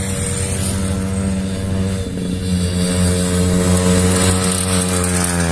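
Motorcycle engine running steadily, its pitch climbing near the end as it revs up.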